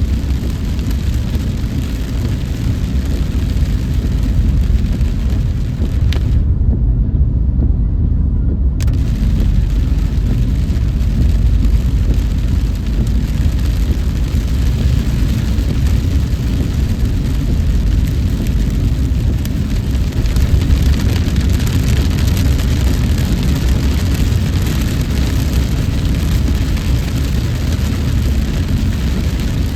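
Steady low rumble of a car driving, engine and road noise heard from inside the car, with a hiss over it that cuts out for about two seconds near the start.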